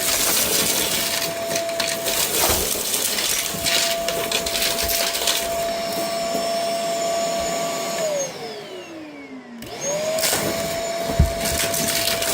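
Vacuum cleaner running with a steady motor whine while debris crackles and rattles as it is sucked up. About eight seconds in the motor is switched off and winds down, then comes back on a second and a half later and spins back up; a single thump near the end.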